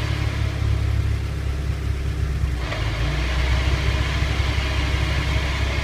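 A Mazda Roadster NB8C's 1.8-litre four-cylinder engine and drivetrain running with a steady low hum, and a hiss coming up about two and a half seconds in. The car has a left-rear noise like a brake disc rubbing, which the owner traces to the differential.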